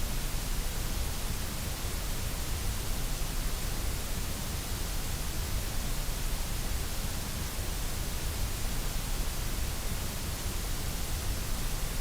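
Steady generated white noise: an even, unbroken hiss that does not change.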